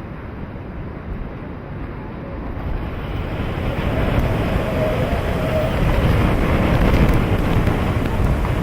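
Hurricane-force wind buffeting the microphone as a steady roar of noise, building in strength about three seconds in and gusting hard after that.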